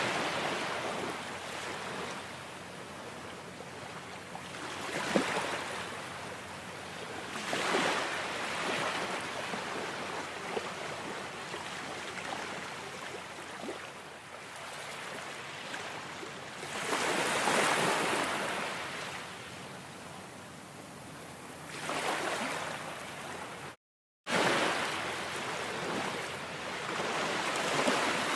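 Ocean waves washing onto a shore: a steady rush of surf that swells and fades every few seconds, with stronger surges near the start, about a quarter and a half of the way through, and toward the end. The sound cuts out completely for about half a second roughly three-quarters of the way through.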